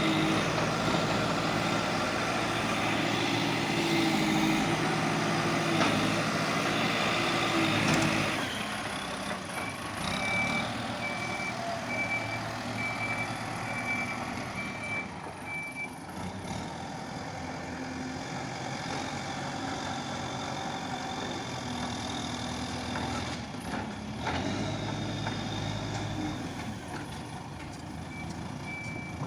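Diesel engine of a JCB digger running under load for the first eight seconds, then running more quietly. A reversing alarm beeps steadily, a little over once a second, for about six seconds, and starts beeping again near the end.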